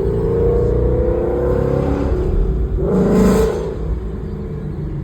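Ford Mustang GT V8 with long-tube headers and a Corsa exhaust, accelerating: the engine note rises in pitch over about two seconds, then a brief louder burst of exhaust about three seconds in.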